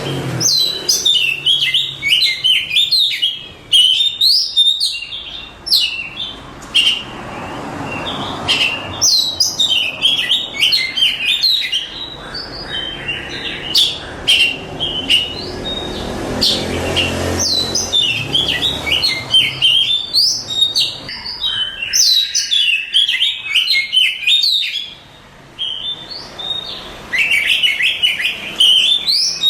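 Oriental magpie-robin (kacer, Copsychus saularis) singing: rapid, varied whistled phrases in bursts separated by short pauses, with a longer pause about three-quarters of the way through.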